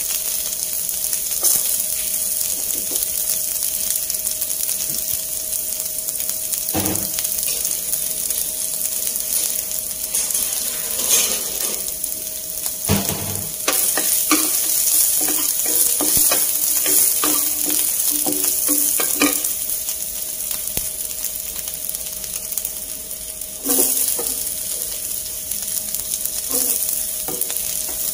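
Diced carrots sizzling in oil in a granite-coated nonstick frying pan, with a steady hiss, while a wooden spatula stirs them, scraping and knocking against the pan now and then.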